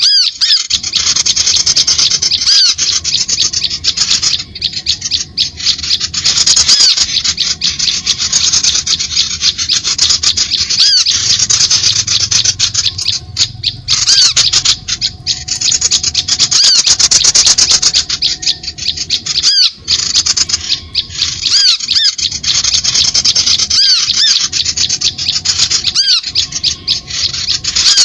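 Bird-lure call recording: a loud, continuous mass of rapid, harsh chattering bird calls mixed with short, high whistled notes repeated in quick succession, with a few brief breaks.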